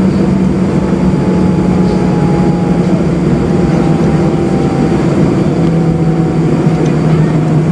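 Airbus A320 jet engines running, heard as a steady loud drone inside the passenger cabin. The low hum steps down slightly in pitch about two-thirds of the way through.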